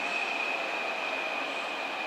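E7/W7 series Shinkansen train pulling away slowly around a curve over pointwork, its wheels squealing in one steady high tone over the rumble of its running gear.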